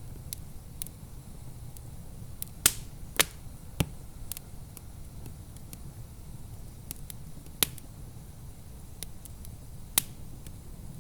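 Wood fire crackling in a fireplace: irregular small ticks and sharp pops, with louder snaps around three seconds in and again near seven and a half and ten seconds, over a steady low rumble.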